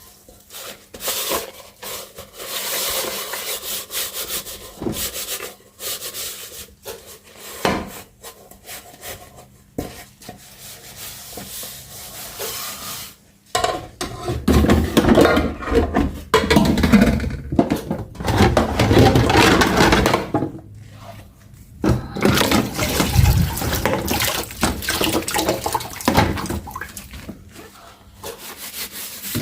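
Water from a kitchen tap splashing over dishes being washed by hand in the sink, coming in uneven rushes that start and stop. It is loudest about halfway through and again a little later.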